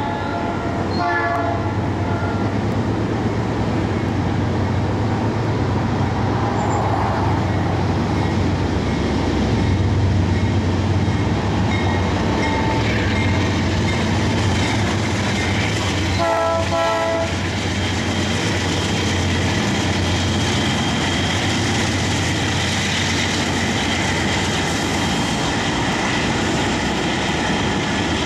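Freight train passing: a lashup of diesel locomotives, including a Buffalo & Pittsburgh EMD SD45, runs by with a steady low engine rumble. The horn sounds briefly about a second in and again for about a second about two-thirds of the way through. Double-stack intermodal cars then roll past.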